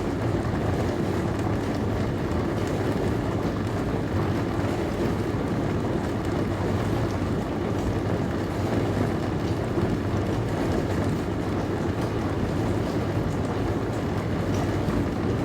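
Dishwasher running mid-cycle: a steady, even rush of water spraying inside the tub, with a low hum underneath.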